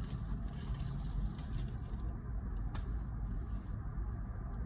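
Steady low rumble of a motor vehicle, heard from inside a truck cab, with a few faint clicks.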